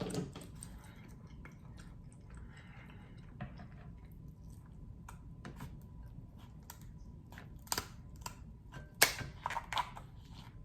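King crab leg shell being cracked open by hand: a few sharp cracks and snaps, most of them bunched together about eight to ten seconds in.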